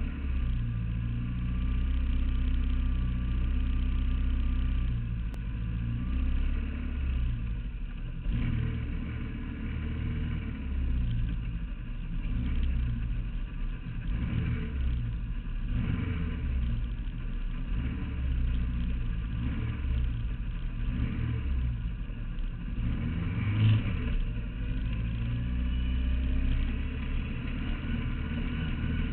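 Engine of an open-cockpit clubman sports racing car, heard from the driver's seat. It idles steadily at first, has its throttle blipped now and then, and pulls away near the end.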